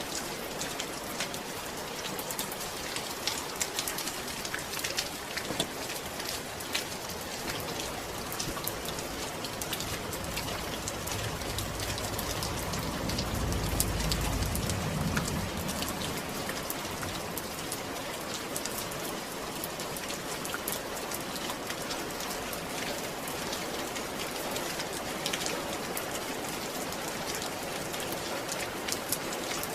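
Steady rain falling, a dense patter of drops. A low rumble swells and fades away around the middle.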